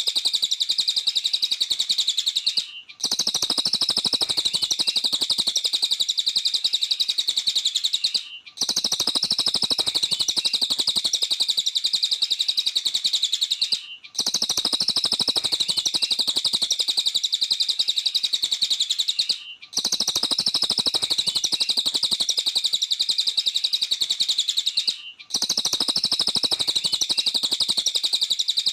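A cililin bird singing a fast, high-pitched chattering trill without pause. The song comes in stretches of about five seconds, each cut by a brief gap at very even intervals, like a repeated recording.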